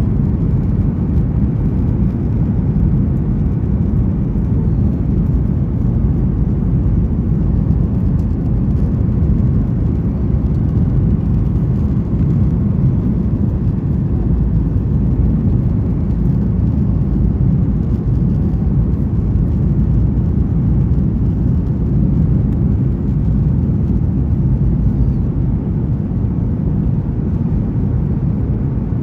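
Steady low rumble inside the cabin of a Boeing 737-900ER: the noise of its CFM56-7B jet engines and airflow, heard from a window seat.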